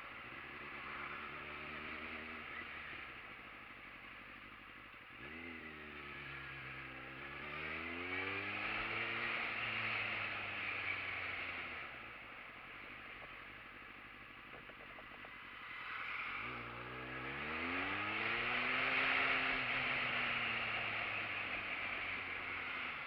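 Motorcycle engine accelerating twice, its pitch climbing quickly and then sinking slowly back as the throttle eases, with a rushing noise that swells with speed.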